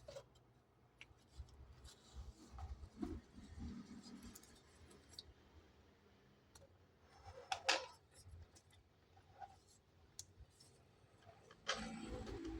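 Quiet handling of packaging and small objects: scattered light clicks and scrapes, a sharper click about seven and a half seconds in, and a louder rustle near the end.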